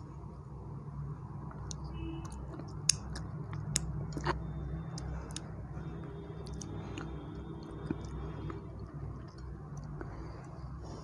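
Close-miked chewing of soft black forest cake with whipped cream, with wet mouth clicks and lip smacks, a few sharper ones about three to four seconds in.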